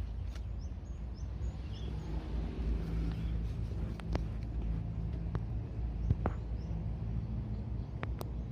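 Outdoor ambience: a steady low rumble with a faint hum like distant traffic, a few short high bird chirps in the first two seconds, and scattered sharp clicks.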